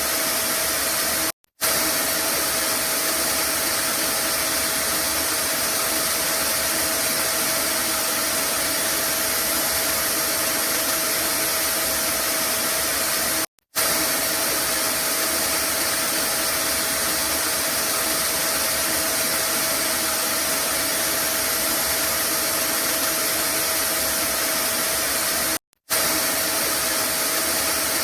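Vacuum cleaner motor running steadily with a constant whooshing hum and a faint whine, cutting out for a split second three times, about twelve seconds apart.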